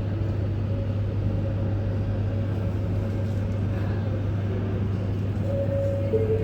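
A steady low machine hum under a continuous rushing background noise, with two short tones near the end.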